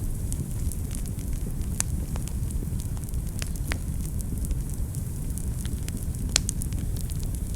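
Wood fire burning in a fireplace: a steady low rumble of flames with irregular sharp crackles and pops, the strongest pop a little over six seconds in.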